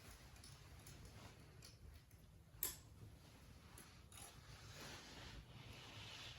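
Faint handling sounds from a wire being tucked along an animatronic prop's pole: light rustling, one sharp click about two and a half seconds in, and a short swell of rustling near the end.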